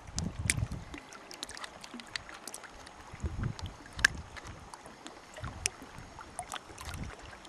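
Water lapping and dripping around an open canoe: scattered small splashes and drips, with a few soft low swells of water against the hull.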